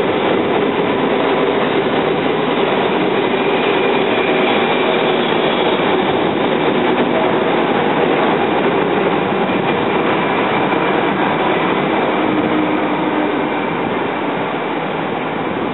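Loud, steady running noise of a train on the rails, with a few faint steady tones in it, easing off slightly near the end.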